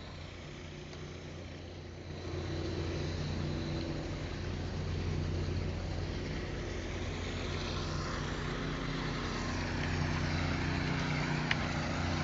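Heavy diesel engine of a concrete pump truck running steadily, getting louder about two seconds in.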